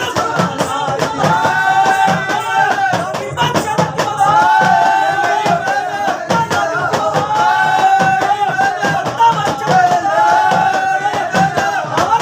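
A male singer's live folk song over steady, rhythmic hand percussion and rattling, shaker-like instruments.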